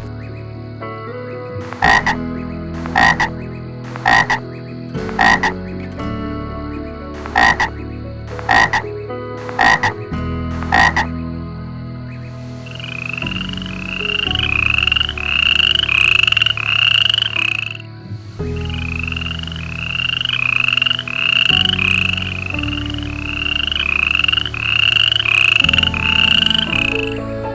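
Frogs croaking: first a series of single loud croaks about once a second, then a faster, even run of higher-pitched repeated calls, about two a second, that pauses briefly and resumes.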